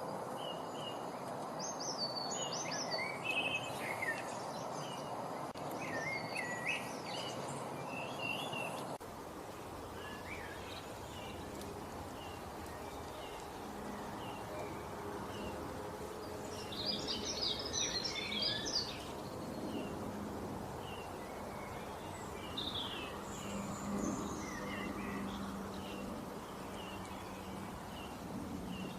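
Songbirds chirping and trilling over a steady outdoor background hiss. The background changes abruptly about nine seconds in, as at a cut between recordings, with a denser flurry of chirps a few seconds later.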